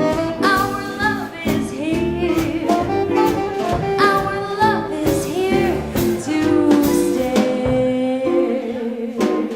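Live swing band playing, with a woman singing and a saxophone. A note is held steady near the end.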